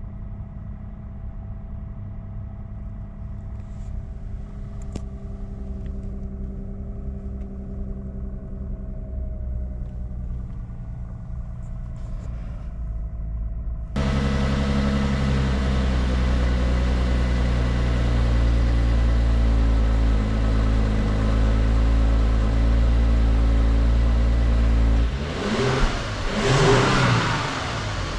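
2018 Lexus LS 500 F Sport's twin-turbo V6 idling steadily, suddenly louder from about halfway through, then revved up and back down near the end.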